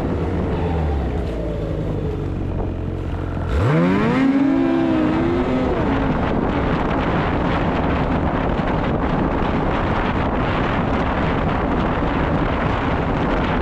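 Snowmobile engine running at a low, steady note, then throttled up about three and a half seconds in, its pitch rising sharply. After that it runs louder and steadily, with wind noise on the microphone.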